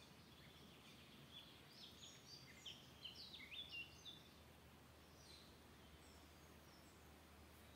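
Faint forest birdsong: a quick run of short, high chirps from one songbird about two to four seconds in, then fainter scattered calls, over a steady low background hiss.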